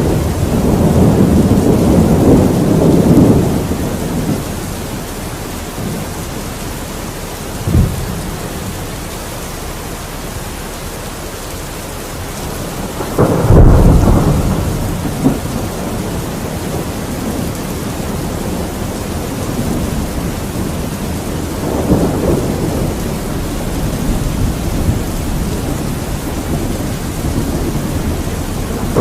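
Steady heavy rain with rolling thunder. A long low rumble opens the stretch, a short sharp crack comes about eight seconds in, a louder clap and rumble about thirteen seconds in, and a softer roll a little past twenty seconds.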